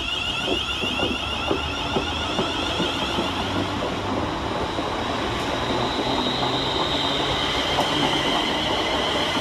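Class 350 Desiro electric multiple unit running through the station, its traction equipment giving a high electric whine over a low rumble, with the wheels clicking on the rails.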